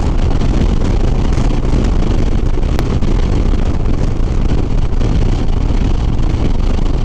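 Harley-Davidson Sport Glide's V-twin engine running steadily at highway cruising speed, mixed with wind rushing over the microphone.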